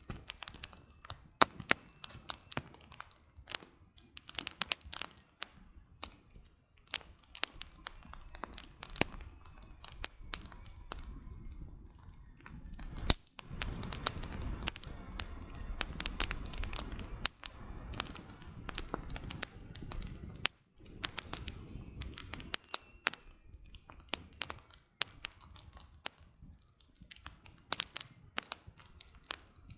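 Wood burning in a campfire, crackling with many sharp pops and snaps. A low rushing sound rises under the crackle for several seconds in the middle.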